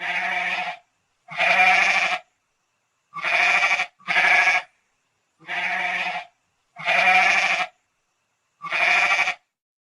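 Goat bleating, seven separate wavering calls of under a second each.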